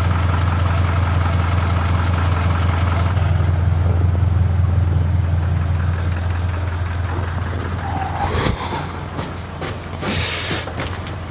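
Ford Powerstroke diesel truck engine idling steadily shortly after a cold start, a deep even hum that drops away about eight seconds in. Two short bursts of hiss follow near the end.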